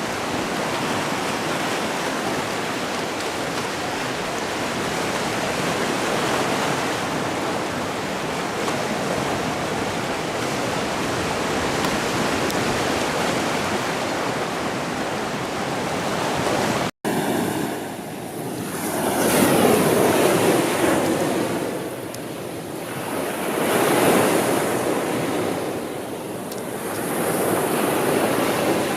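Sea surf: a steady rush of water, cut off for an instant a little past halfway. After the cut, waves wash in and draw back about every four to five seconds.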